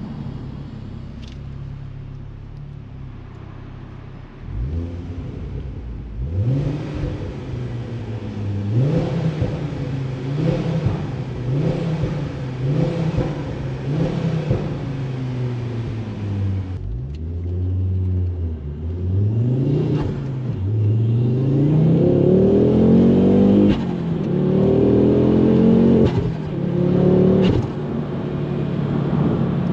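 Ford Focus RS Mk2's 2.5-litre turbocharged five-cylinder engine, heard from inside the cabin. It runs quietly at first; from about four seconds in the revs rise and fall again and again, and near the end it pulls harder in longer climbing sweeps that cut off sharply.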